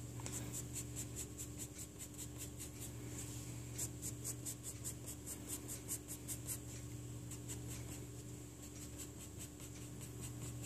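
Pencil sketching on paper in quick, short strokes, several a second, with a brief pause about two-thirds of the way through, as small feather lines are drawn. A faint steady hum lies underneath.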